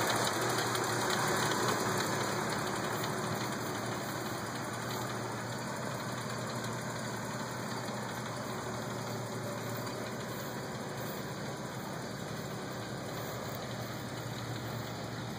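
1978 Ford Fairmont station wagon's engine idling steadily, a little fainter after the first few seconds.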